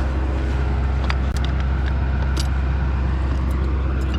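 A vehicle engine running steadily with a low, even drone, with a few light clicks or knocks over it.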